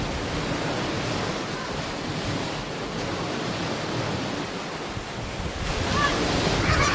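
Ocean waves washing onto a beach: a steady rush of surf with wind on the microphone, swelling a little near the end.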